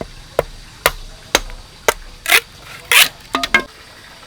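A run of chopping blows: four sharp strikes about half a second apart, then two longer rasping strokes and a quick double knock.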